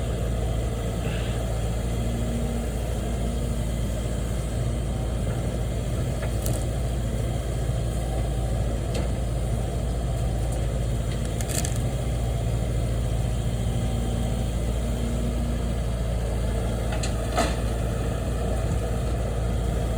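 A vehicle engine idling steadily, a constant low hum, with a few faint clicks over it.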